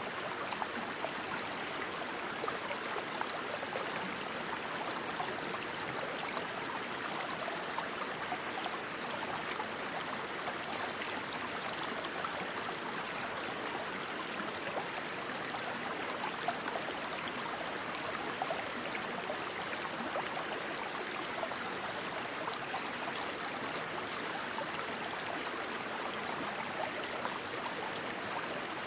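Stream water rushing steadily, with short high chirps about once or twice a second and two brief rapid trills, one about ten seconds in and one near the end.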